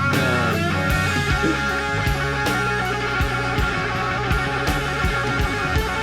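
Live electric blues: an electric guitar solo with bent notes sliding in pitch near the start, over bass and regular drum beats.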